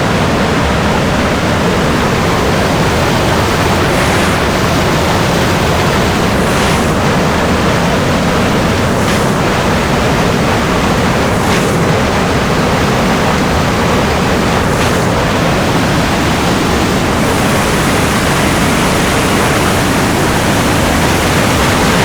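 Waterfall water rushing, loud and steady.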